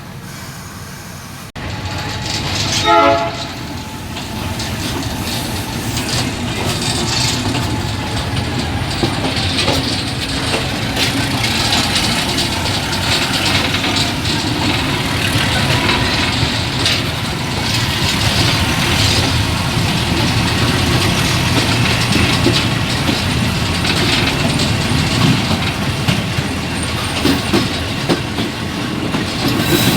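Old passenger train running on the rails with a steady rumble and irregular wheel clatter. A short horn blast sounds about three seconds in.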